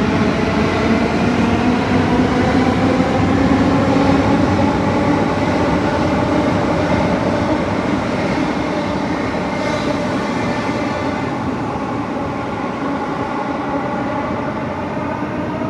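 A loud, steady mechanical rumble with several tones that slowly slide in pitch, easing off a little over the second half.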